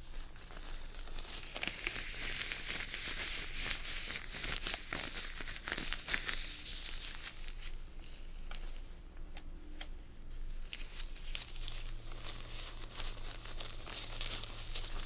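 Close-miked crinkling and tearing of a thin wrapper, an alcohol wipe packet being opened and handled, with scattered small clicks and rustling. It eases off for a couple of seconds past the middle, then starts up again.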